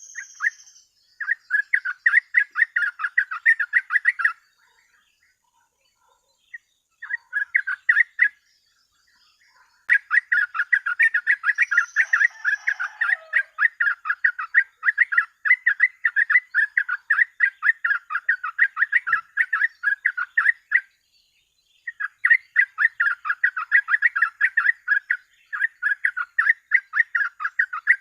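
Yellow-vented bulbul (trucuk) singing its rapid 'ropel' chatter: fast runs of repeated bubbling notes, several a second, in bursts of a few seconds with short pauses between, one long run in the middle.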